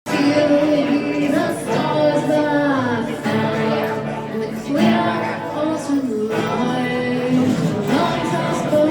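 A live rock band playing a song, with sung vocals over the instruments.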